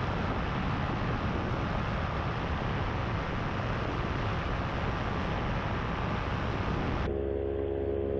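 Power2Fly RS paramotor running steadily in flight, its engine and propeller heard as a dense, even noise. About seven seconds in the sound changes abruptly: the higher part drops away and a steady low hum remains.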